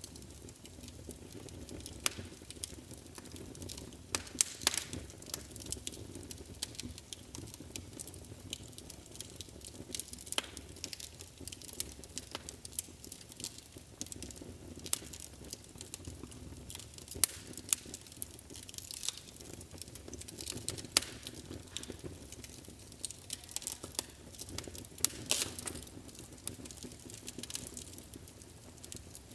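Wood fire burning in a fireplace: a steady low rush of flames with irregular sharp crackles and pops, some louder snaps scattered through.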